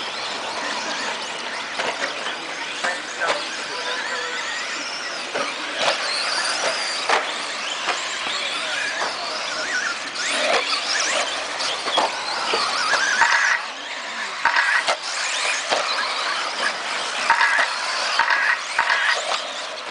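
A pack of electric 1/10-scale RC stadium trucks racing: high motor and gear whine rising and falling as they accelerate and brake, with frequent sharp clacks from landings and impacts.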